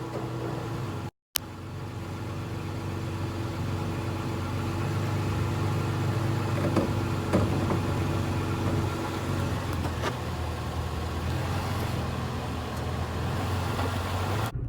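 2020 Toyota Tacoma pickup's engine running steadily at low speed as the truck creeps forward, with a few light clicks partway through.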